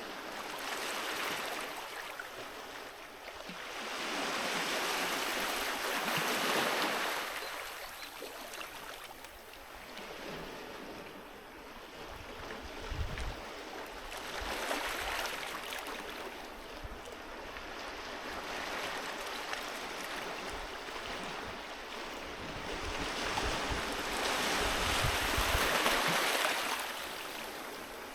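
Sea waves breaking and washing on a beach, the surf swelling and fading in slow surges every several seconds, loudest near the end. A few brief low rumbles come in the middle and near the end.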